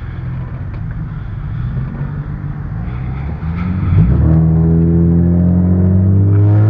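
A car engine drone over steady road rumble, then about four seconds in a much louder engine note comes in as the car accelerates hard, its pitch rising slowly.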